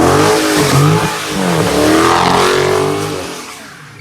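Car engine revving hard at a street takeover, its pitch climbing and falling again several times, then fading away near the end.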